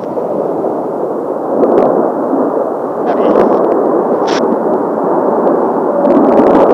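Rushing roar of Kawasaki T-4 jet trainers' turbofan engines passing over. It swells about two seconds in and again near the end, with a few sharp clicks through it.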